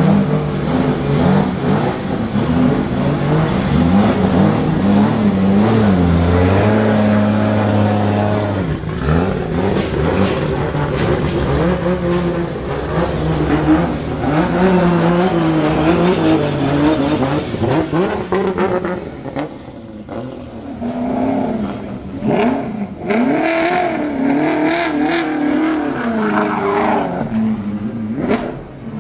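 Modified drift cars revving their engines one after another: throttle blips and held revs, the pitch rising and falling, with a few short sharp cracks. The revs are held steady for a couple of seconds about a quarter of the way in; after a short lull about two-thirds through comes a run of quick rising-and-falling blips.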